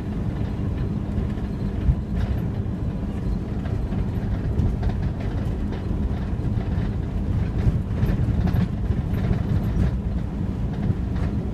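Steady low rumble of a vehicle in motion, with scattered faint clicks and ticks over it.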